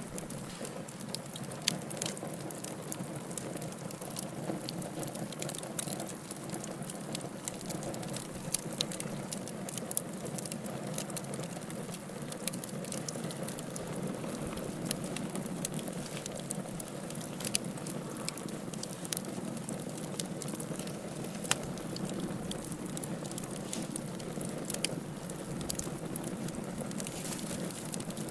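Wood fire burning in a fireplace: a steady low hiss and rustle of flames with frequent sharp crackles and pops at irregular intervals.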